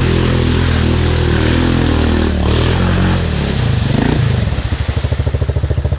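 Off-road vehicle engine running at steady revs, then dropping about three and a half seconds in to an evenly pulsing idle.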